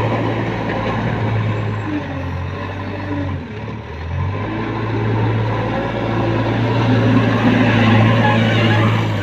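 Heavy diesel engine of construction machinery running steadily, its note dropping briefly about three and a half seconds in before picking back up.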